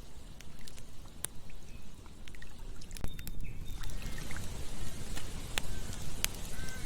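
Campfire crackling, with sharp irregular pops over a low steady rumble; a broad hiss swells up a little under four seconds in. A few faint short chirps sound now and then.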